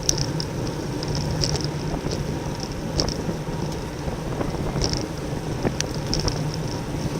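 Wind rushing over a bicycle-mounted camera's microphone and tyre noise from a road bike racing in a bunch, with scattered light clicks and rattles.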